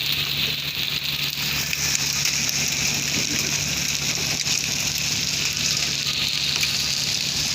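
Heavy rain falling steadily, with a faint steady low hum underneath.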